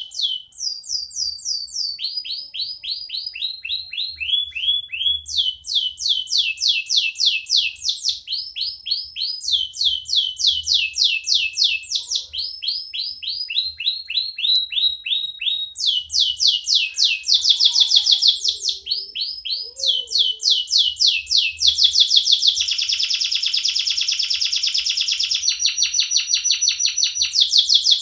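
Domestic canary singing a long song in tours: runs of quick, repeated, high falling notes, each run at a different pitch. The notes close up into a fast, rattling trill for the last several seconds.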